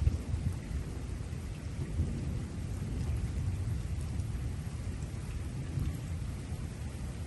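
Thunder rumbling low and on and on under steady rain, with a sharper crack of thunder right at the start.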